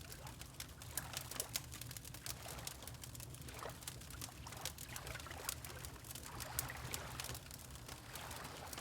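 Fireplace crackling with many small pops over gentle water lapping, which comes in soft swells every second or two, with a low steady rumble underneath.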